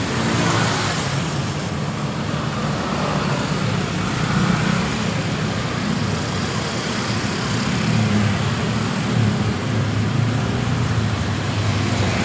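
Road traffic: motor vehicles passing steadily, with a low engine rumble and tyre noise and one louder pass near the start.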